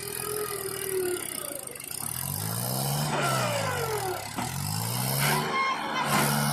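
Engine revving: its pitch climbs, falls away, then climbs again, with a higher whine gliding down above it.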